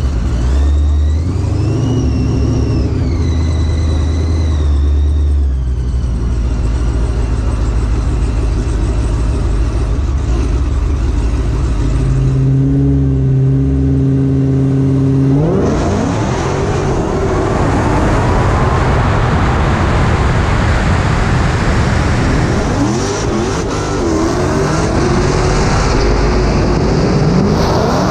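Supercharged Hemi V8 of a Dodge Challenger drag car running, first at a steady idle with a rising and falling supercharger whine. About halfway through, the throttle goes hard open and the engine revs loudly, its pitch climbing and wavering.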